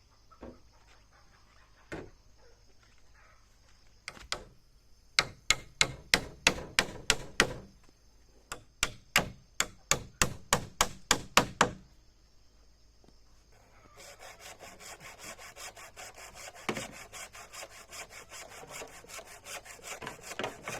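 Woodworking by hand: two quick runs of sharp knocks on wood, about four a second, then a fast rhythmic rasp of a hand saw cutting through wood.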